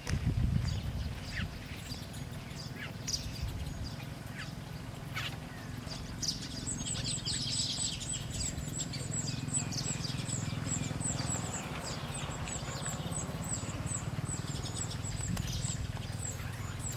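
Small birds chirping. About six seconds in, a long rapid run of high, thin ticking notes begins and carries on, over a low steady rumble.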